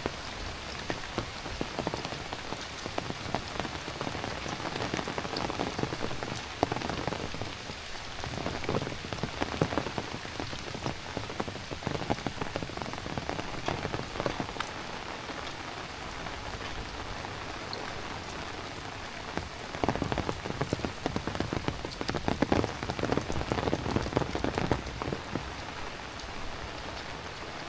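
Heavy rain falling on surfaces, a dense steady hiss peppered with many close drips and splashes. It swells louder twice, for a few seconds each time.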